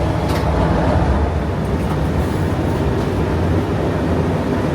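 English Electric 12CSVT V12 diesel engine of a Class 37 locomotive idling steadily with an even low rumble, heard inside the cab.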